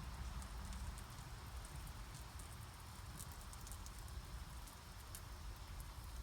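A fire starter burning, with faint scattered crackles over a low steady rumble.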